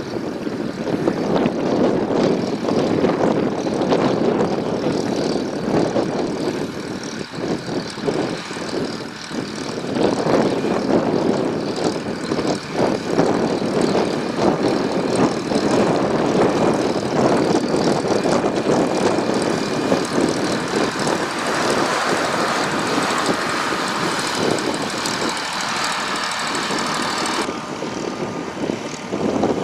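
Volvo BM 350 Boxer tractor's diesel engine running steadily under load while pulling a crop sprayer, with its level rising and falling. The tone changes abruptly near the end.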